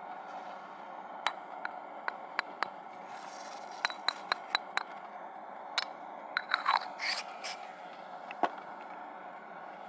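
Hard camping gear being handled: a run of small, sharp clinks and knocks, a brief scraping rustle about two-thirds of the way in, and one louder knock near the end.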